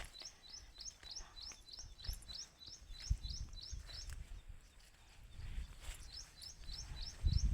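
A small bird repeating a short, high, rising chirp about three or four times a second. The chirping pauses for a couple of seconds midway, then starts again. Low rumble and a few dull thumps lie underneath, the loudest near the end.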